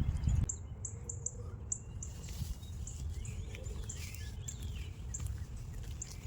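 Small birds chirping repeatedly with short high calls, some sweeping up and down in pitch, over a low outdoor rumble that is heaviest in the first half second.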